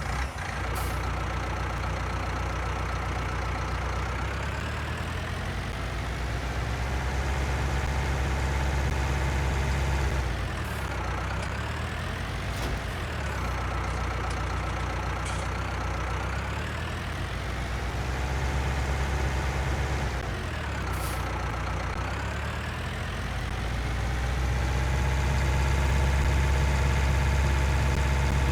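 Tractor engine running after a start, its speed dropping and rising again several times, then holding steady and a little louder near the end.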